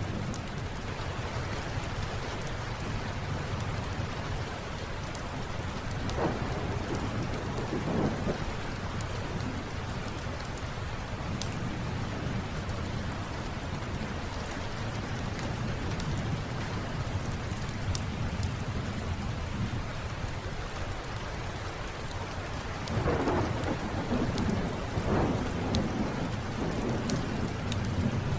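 Steady rain with a low, continuous thunder rumble, swelling louder about a quarter of the way in and again near the end. Scattered sharp crackles from a fireplace run through it.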